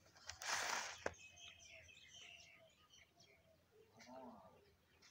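Faint birds chirping in a series of short notes. A short hissing rustle comes near the start and a single click about a second in.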